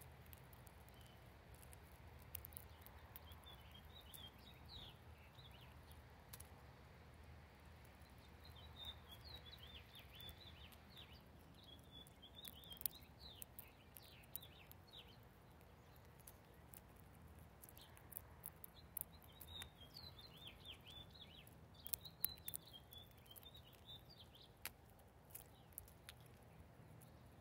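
Faint twittering of small birds, rapid high chirps in three spells, with scattered sharp ticks and taps.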